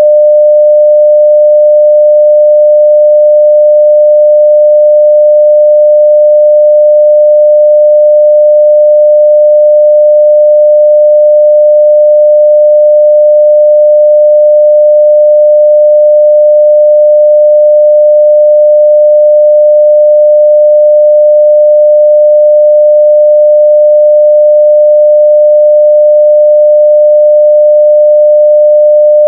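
A steady 600 Hz sine-wave test tone at full level (0 dB), one unchanging pure pitch.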